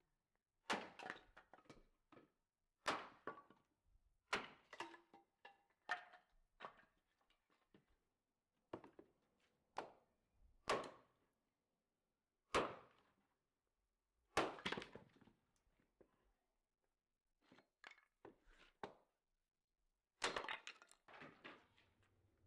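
A series of separate knocks and thuds from kitchen work, one every second or two with quiet gaps between them, with a short ring of a small room after each.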